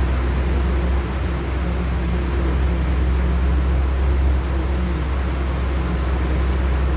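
LiAZ-6213.65 articulated city bus under way, heard from inside the cabin: a steady low engine and drivetrain rumble with road noise.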